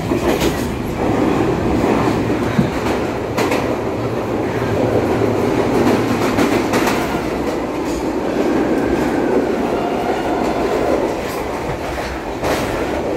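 Passenger train running through a tunnel, heard from inside a carriage: steady noise of wheels on the rails, with a few sharp clacks over rail joints.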